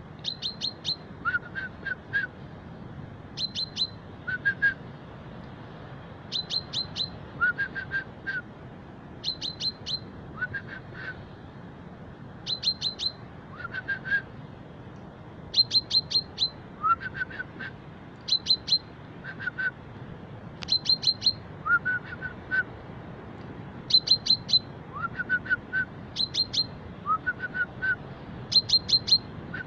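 A common chaffinch singing the same short phrase over and over, about once every three seconds. Each phrase is a quick run of three or four sharp high notes followed by two or three lower, rising notes.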